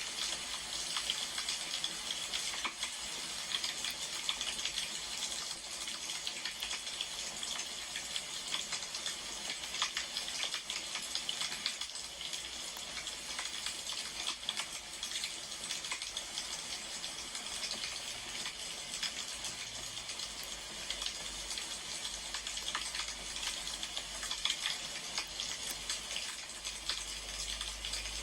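Wood fire crackling: a steady hiss with frequent small pops and snaps.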